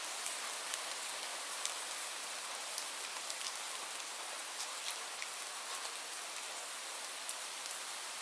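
Steady light rain: an even hiss with many separate raindrops ticking on a surface.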